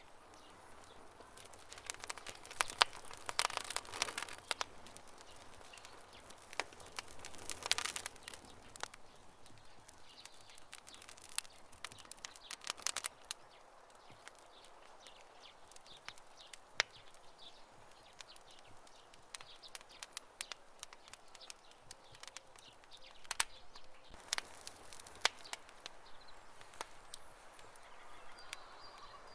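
Campfire crackling: a steady bed of small snaps with scattered sharp pops, bunching into denser bursts of snapping a few times.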